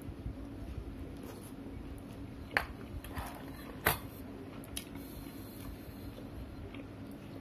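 Someone chewing a mouthful of chicken burger, with two sharp clicks about two and a half and four seconds in and a few fainter ones, over a steady low hum.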